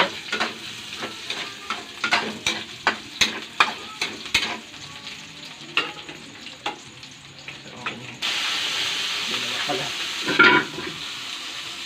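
A metal spatula tapping and scraping in a frying pan about twice a second while onion and garlic sizzle in oil. About eight seconds in the sizzling suddenly jumps much louder and holds steady, with one louder knock about two seconds later.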